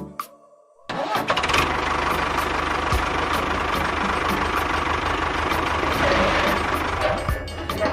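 A small machine motor starts about a second in and runs steadily with a dense, noisy drone and a low hum, changing slightly near the end.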